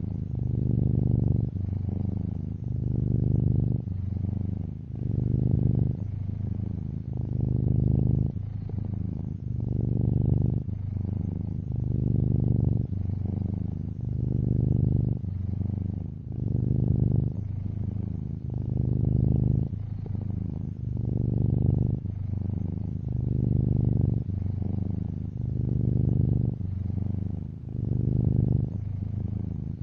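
Domestic cat purring steadily in a low buzz, swelling and easing with each breath about every two seconds.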